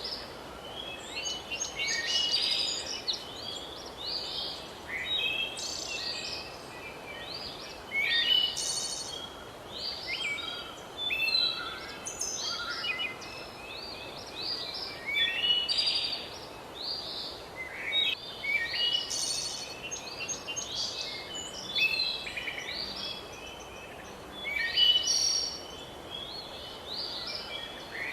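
A chorus of songbirds, several birds singing and chirping in quick overlapping phrases without pause, over a steady background hiss.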